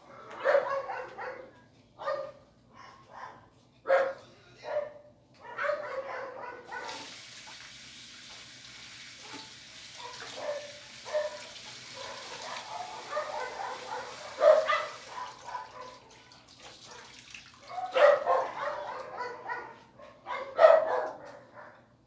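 A dog barking in short, irregular bursts, about ten in all. A steady hiss runs underneath from about seven to fifteen seconds in.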